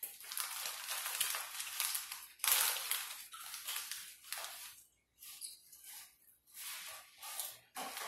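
Crunchy food being bitten and chewed: a run of crunches, the loudest about two and a half seconds in, broken by short pauses in the second half.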